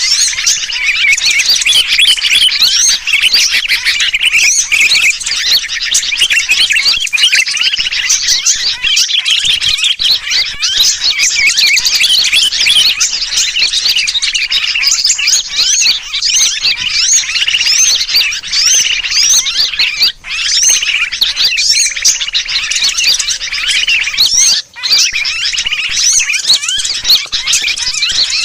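Bird-lure recording: a dense, unbroken chatter of many small birds chirping, mixed with the distress calls of a sooty-headed bulbul (kutilang), played to draw wild birds in. Two brief breaks come in the second half.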